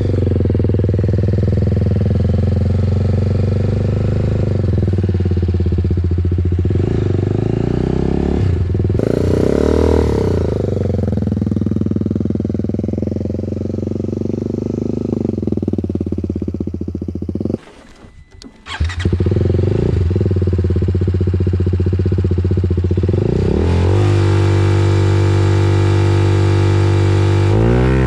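TVS Apache RR 310's single-cylinder engine running through a custom Yoshimura slip-on exhaust, revs rising and falling several times. The sound cuts out briefly about eighteen seconds in.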